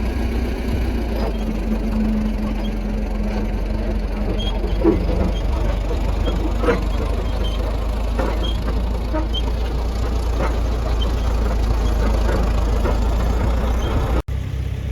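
A vehicle engine running steadily, with a few short faint clicks in the middle. The sound cuts out briefly near the end.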